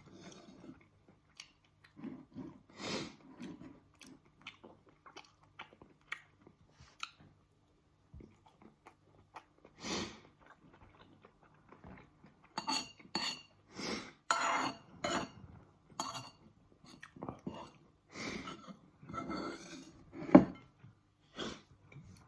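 Cutlery clinking and scraping against a dish in irregular short knocks while a meal of couscous and tofu is eaten, with close-up chewing between them. A sharper, louder clink comes about twenty seconds in.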